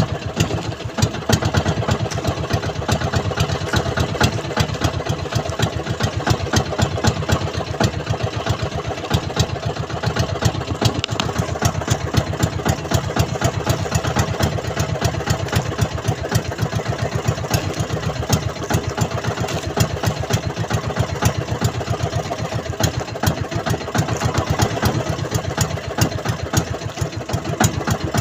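Small fishing-boat engine running steadily, with a rapid, even chugging beat that does not change.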